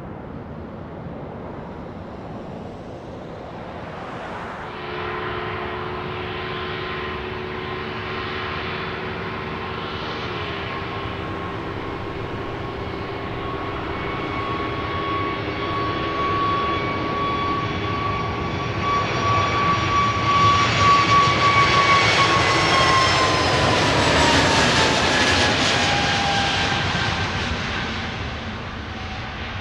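Jet airliner passing by. Its engine whine builds and holds a steady pitch, grows loudest, then falls in pitch and fades as the aircraft goes past.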